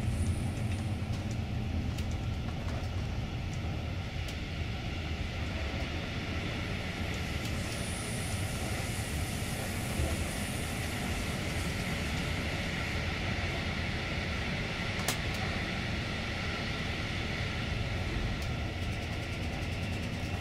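Freight train rolling past: a steady rumble of wagon wheels on the rails with a few sharp clicks, and a thin, high-pitched wheel squeal at the start and again about eight to eleven seconds in.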